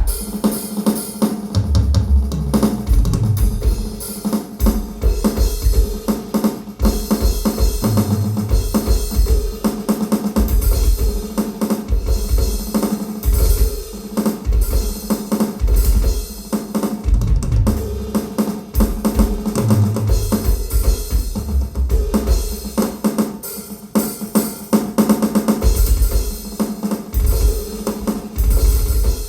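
A drum kit played solo: bass drum, snare and cymbals in a continuous run of beats and fills, with heavy bass drum hits.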